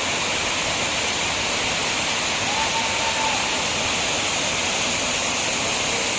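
Waterfall's falling water rushing, a steady, even hiss.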